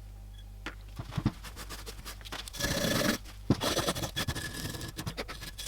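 Heavily rusted old wrench being scraped clean of loose rust and crust, in short scratching strokes, with a few sharp knocks about a second in.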